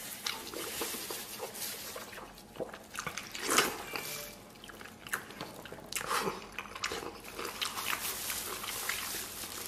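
Close-miked wet chewing and lip-smacking on a big mouthful of fatty braised meat, with many small clicks, a louder wet smack about three and a half seconds in and another about six seconds in.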